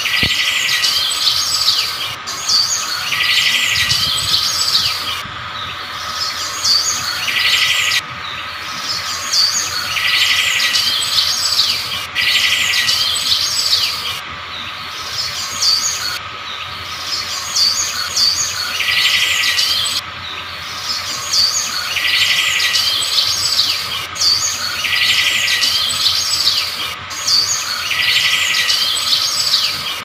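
Birds singing: a dense mix of chirps and whistles, with a short buzzy trill that comes back every few seconds.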